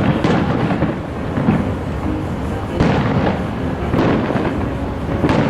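Aerial fireworks bursting overhead: a string of booms about a second apart, each trailing off in a deep rumble.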